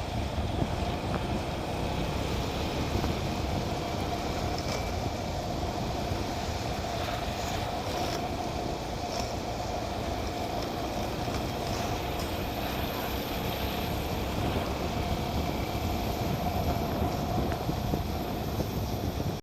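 Motorcycle running steadily: a constant low rumble with a steady whine above it, unbroken throughout.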